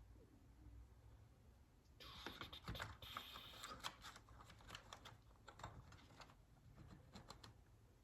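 Faint clicks and light rattling of small metal transmission parts being handled, with a scraping, rustling patch about two to four seconds in.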